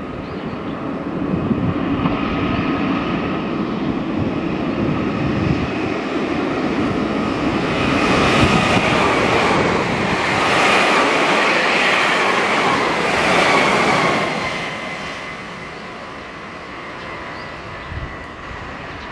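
Electric train passing close by on steel rails: rumble and wheel-on-rail noise with a steady high whine that drifts slightly lower. It builds up, is loudest through the middle with a run of repeated rail-joint knocks, then fades away.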